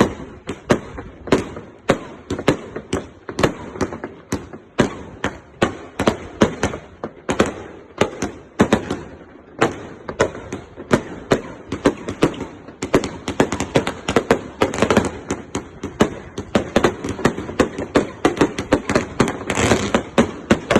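Consumer firework cake firing a steady string of sharp shots, about three a second, with denser crackling and heavier bangs near the end.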